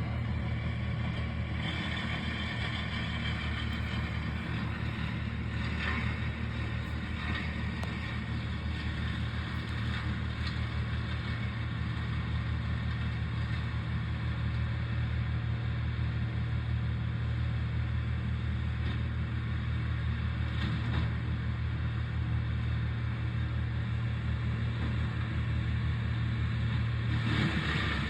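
An engine running steadily at a constant low speed, a low even hum, with a brief change in the sound near the end.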